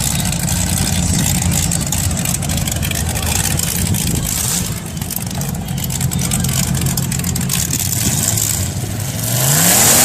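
Demolition derby cars' engines running together with scattered clicks and knocks, and one engine revving up hard near the end.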